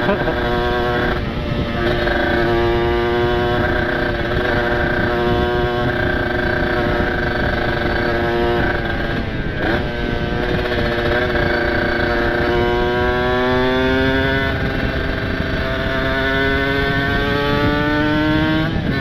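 Kawasaki Ninja 150 RR's ported two-stroke single with an open exhaust, running hard at high revs at riding speed. There is a brief dip about halfway through, then the revs climb steadily through the last third. The engine note is clean, with wind rush underneath.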